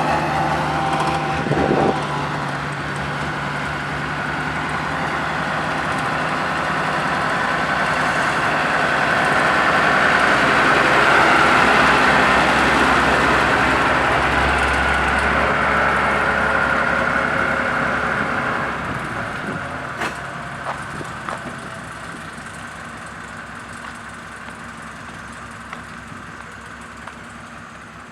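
Diesel road roller engine running, growing louder toward the middle and then fading as the machine moves away.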